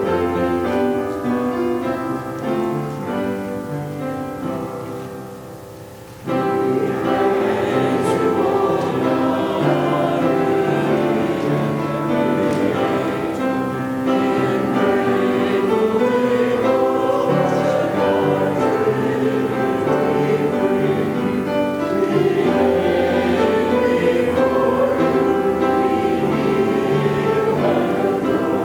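Piano playing, fading over the first few seconds, then a choir comes in singing a hymn with piano accompaniment about six seconds in.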